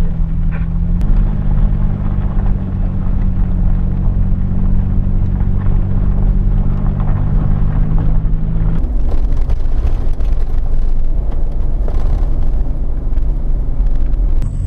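Off-road 4x4 driving on a dirt road: steady engine hum with tyre and road noise. About nine seconds in, the engine note shifts and the road noise gets rougher.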